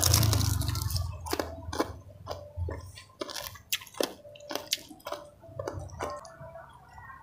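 A person chewing close to the microphone while eating salted fish and rice by hand: wet, smacking mouth sounds with many irregular sharp clicks, after a louder muffled burst in the first second.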